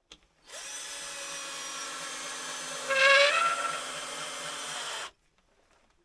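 A small electric power-tool motor, like a drill's, runs steadily for about four and a half seconds, switching on and off abruptly, with a louder strain and rising pitch about three seconds in.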